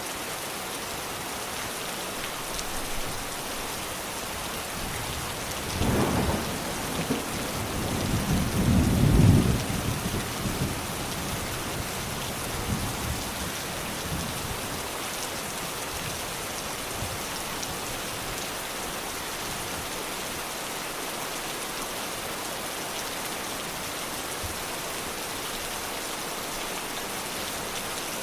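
Steady heavy rain falling, with thunder rumbling low about six seconds in and again, louder and longer, from about eight to ten seconds in.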